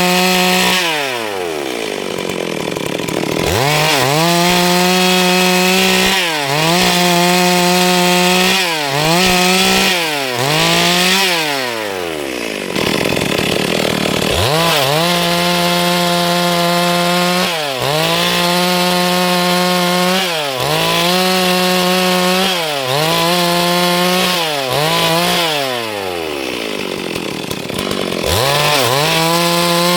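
Stihl MS 382 two-stroke chainsaw running at high revs, its pitch dipping briefly every couple of seconds. Three times it winds down toward idle and then revs back up.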